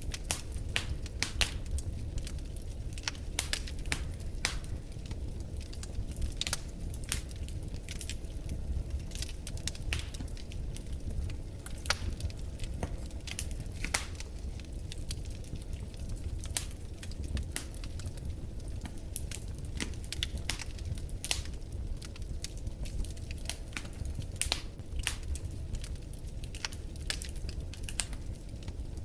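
Wood fire burning in a fireplace: irregular sharp crackles and pops scattered throughout, over a steady low rumble of the flames.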